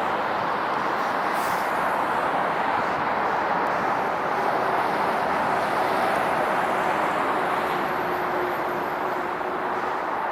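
Train running past with a steady rolling noise, and a faint hum from about five to nine seconds in.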